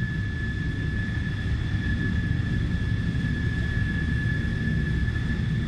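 Airliner cabin noise in flight: a steady low rumble with a thin, steady high whine over it.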